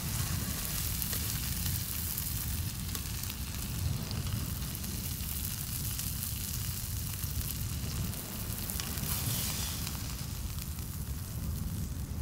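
Fish pieces sizzling and crackling in hot palm oil in a cast-iron skillet, a steady frying hiss, with a few light clicks from metal tongs as the pieces are turned and lifted out. A steady low rumble runs underneath.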